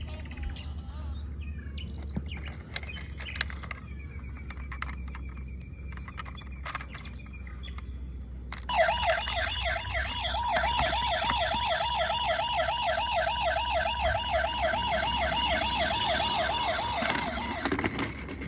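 Electronic siren of a toy police car: a loud, fast up-and-down warble that starts abruptly about nine seconds in and stops shortly before the end. Before it come scattered clicks and knocks.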